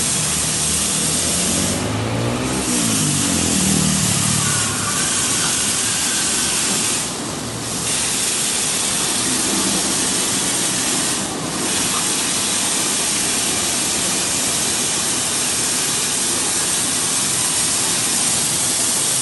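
Blow dryer running with a steady airy rush while drying a dog, the rush dipping briefly twice. A short wavering pitched sound rises and falls low under the rush about two to four seconds in.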